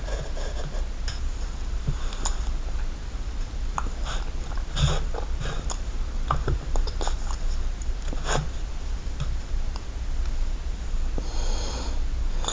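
Breathing and sniffing close to the microphone over a steady low hum, with scattered faint clicks and scratches.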